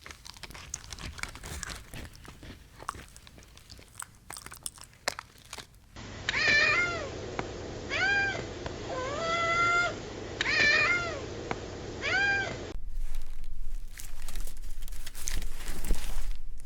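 A cat meowing about five times in a row, each meow rising and falling in pitch, one of them longer and flatter. Before and after the meows there are soft clicks and rustling.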